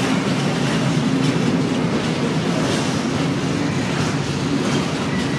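Freight train of covered hopper wagons rolling past, a steady rumble of steel wheels on the rails with occasional clatter.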